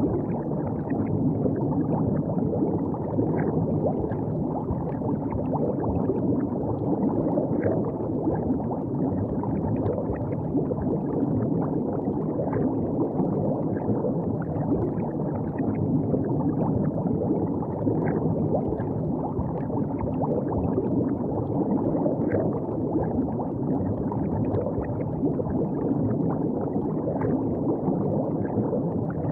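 River water flowing and gurgling steadily, with small light splashes scattered throughout.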